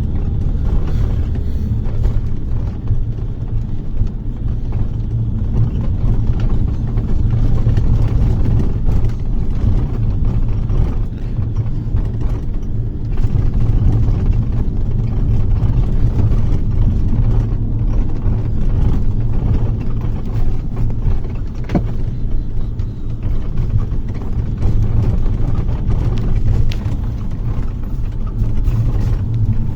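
Bus engine and road noise heard from inside the passenger cabin: a steady low rumble with faint rattles and clicks.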